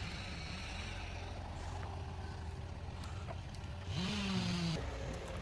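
Komatsu 845 forwarder's diesel engine running steadily. About four seconds in it briefly rises in pitch and gets louder for under a second.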